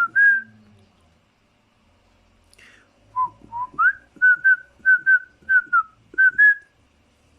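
Pet parrot whistling: one short clear note at the start, then a quick run of about ten short whistled notes from about three seconds in, some sliding upward in pitch.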